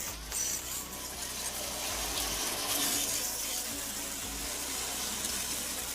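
Water spraying in a steady rushing hiss, as when an air conditioner's coils are jet-washed during a service.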